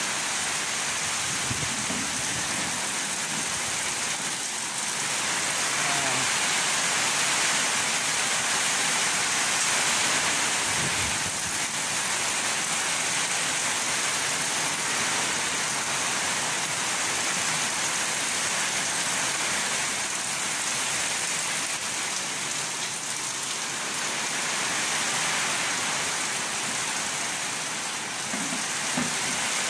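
Heavy rain pouring steadily, a dense, even hiss of drops falling on surfaces.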